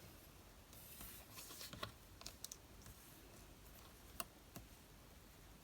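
Faint, scattered small clicks and light rustles of card-stock pieces being handled, a cluster of them from about one to two and a half seconds in and a sharper single click just after four seconds.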